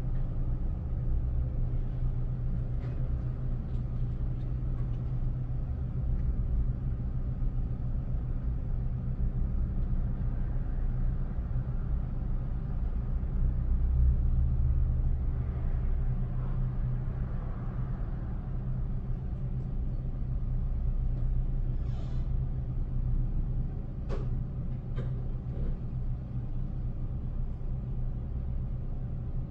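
Steady low engine rumble, with a few short clicks near the end.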